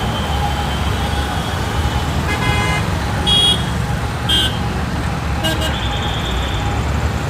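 Busy road traffic running steadily, with car horns giving short toots about midway and a longer honk later, over background voices.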